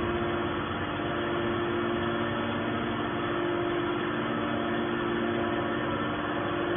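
Scrap metal baler's hydraulic machinery running with a steady hum.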